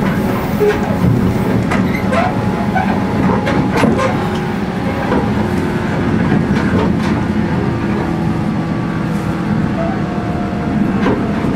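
Inside a JR 115 series electric train running at a steady speed: a steady rumble with the even hum of its MT54 traction motors, and a few sharp clicks from the wheels over rail joints.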